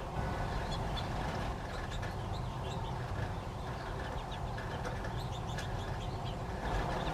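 A flock of birds chirping and calling, many short high notes overlapping at an uneven pace, over a steady low rumble.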